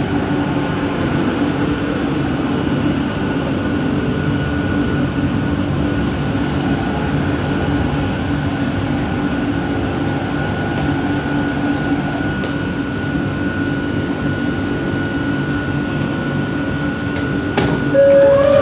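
Bombardier Innovia ART 200 light-metro train running at steady speed, heard from inside the car: continuous wheel and running rumble with a motor whine held at one steady pitch. Just before the end there is a click and a loud steady tone begins.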